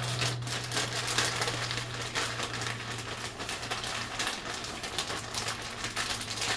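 Dense, continuous crackling and crinkling over a steady low hum.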